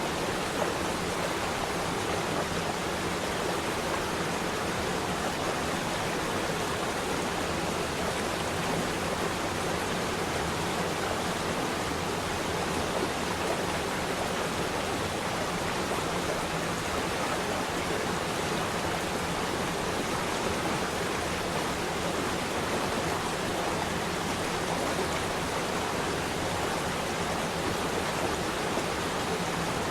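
Running water flowing steadily, an even, unbroken hiss with no pauses or changes.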